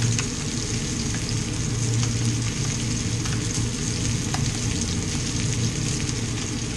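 Breaded zander fillets frying in butter and oil in a frying pan: a steady sizzle with scattered small pops.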